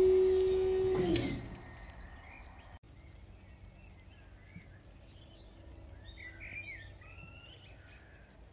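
Birds chirping faintly over quiet outdoor background. At the start a loud steady tone, pitched like a horn or alarm, cuts off about a second in with a click and a brief fall in pitch.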